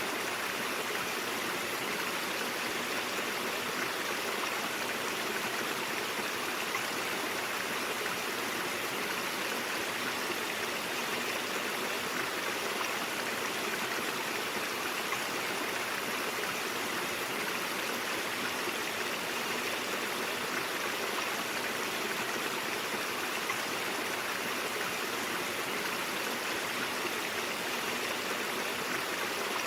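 Mountain stream water flowing and splashing over rocks, a steady rushing burble with no change.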